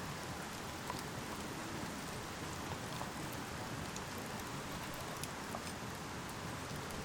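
Meat sizzling while it grills over a fire: a steady hiss with scattered small pops.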